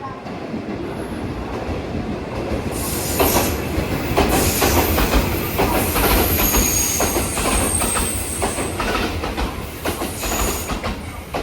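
JR West 221 series electric train passing at speed, its wheels clattering over rail joints, with a few brief high-pitched wheel squeals. The sound builds about three seconds in and stays loud until near the end.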